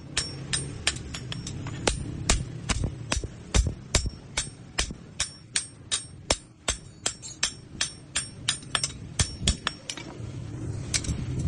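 Hand hammer striking steel on an anvil, about three ringing blows a second, while forging a blade. The blows stop near the end and a steady low rumble comes in.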